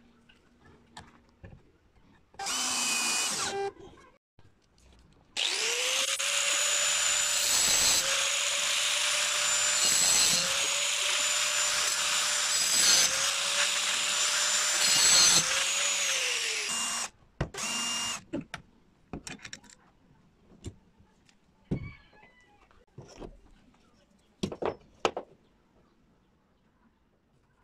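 Electric drill press motor running with a steady whine, briefly at first, then for about eleven seconds while working wood. Its pitch dips and recovers four times as it bites under load. It stops with a short restart, followed by scattered light knocks and clicks of handling.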